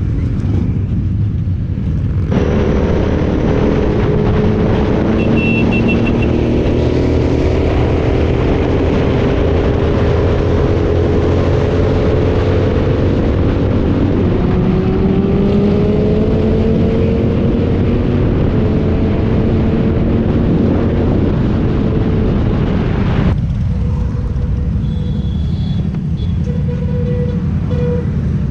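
Several motorcycle engines running together, many engine notes rising and falling over one another as the bikes accelerate and pass, over a steady low rumble. The mass of engine notes starts about two seconds in and drops away a few seconds before the end, leaving only the rumble.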